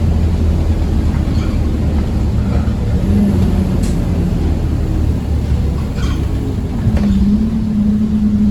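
Scania OmniCity bus on the move, heard from inside the cabin: diesel engine and road noise drone steadily. The drone eases about five and a half seconds in, then a steady, higher engine note comes in about a second later, with a few rattles along the way.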